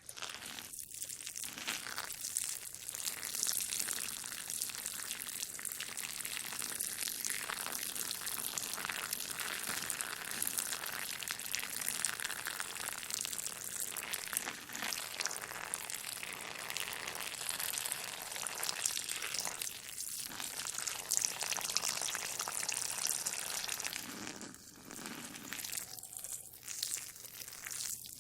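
A steady hissing splash of a stream of liquid: someone urinating. It dips briefly about 24 seconds in.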